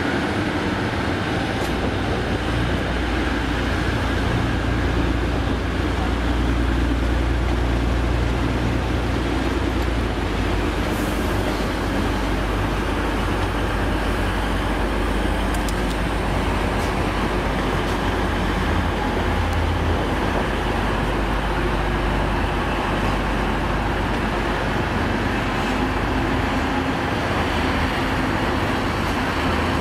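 Train running in a station: a steady low rumble, heaviest in the first third and easing after, under a busy platform's background noise.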